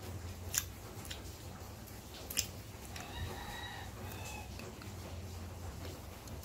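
Crisp crunches of unripe green mango being bitten and chewed, with two sharp crunches in the first half. About three seconds in come two short, high-pitched calls, a little under a second apart.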